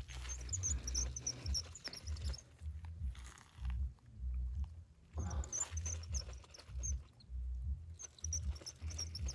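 Small bird chirping in quick, very high-pitched runs of about two seconds, with pauses between, over a low irregular rumble of wind on the microphone.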